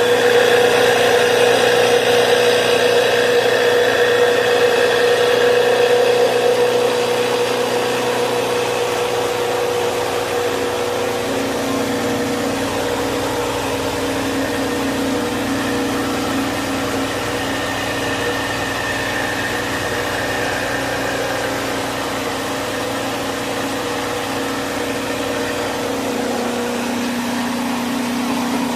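6W300 three-in-one mini rice mill machine running, its 4HP single-phase electric motor and milling drum giving a steady hum over a noisy whirr. The sound is a little louder for the first several seconds, then settles.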